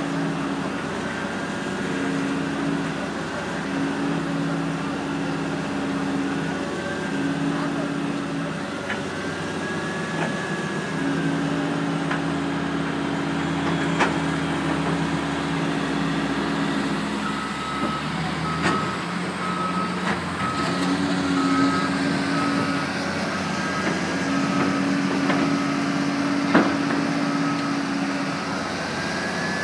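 Diesel engines of a backhoe loader and a front loader running and working under varying load. Partway through, a reversing alarm beeps steadily for about ten seconds. There are a few sharp metal clanks.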